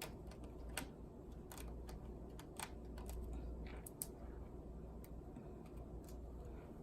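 Light, scattered clicks of a small screwdriver and a tiny screw against a laptop's plastic case as the screw is backed out.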